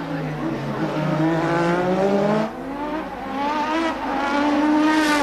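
1988 Formula One car engines at high revs, their pitch sliding down and then climbing again through the gears, with a sudden cut about halfway through.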